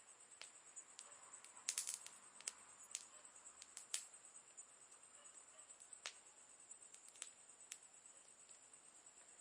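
Campfire crackling: quiet, irregular pops from the burning wood, with a quick burst of several pops about two seconds in.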